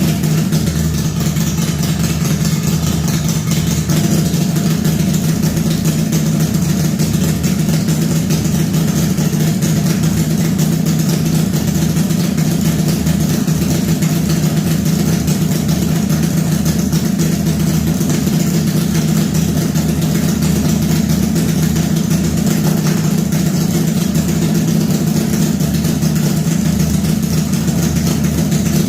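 Homemade V4 engine, built from scrap-yard engines, running steadily at idle.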